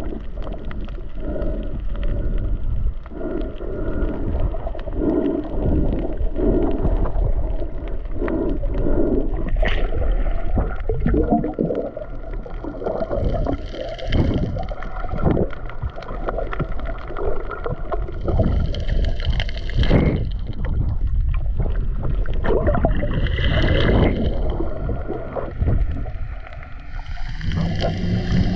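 Boat underway on open water: its engine runs with a heavy, uneven rumble and irregular slaps and splashes of water.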